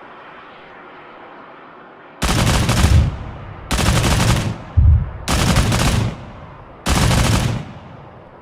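Pantsir-S1's twin 30 mm autocannons firing four short, very rapid bursts, about one and a half seconds apart, with a single short bang between the second and third bursts.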